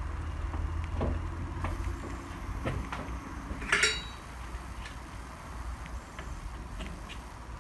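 Tools and metal parts being handled during reassembly: scattered light clicks and knocks over a low rumble, with one sharper clink that rings briefly about four seconds in.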